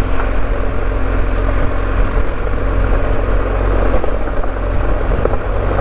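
BMW R1250GS boxer-twin engine running at a steady cruise, with tyre and wind noise from riding a gravel track.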